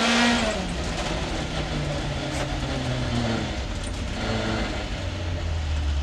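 Rally car engine heard from inside the cockpit, revving high at the start and then falling in pitch as the car comes off the throttle. Steady road and tyre noise runs underneath, and a lower engine note sets in about five seconds in.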